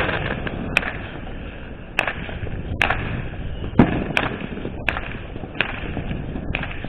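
Fireworks and firecrackers going off in the surroundings: about eight sharp bangs at irregular intervals, the loudest about four seconds in, over a steady background hiss.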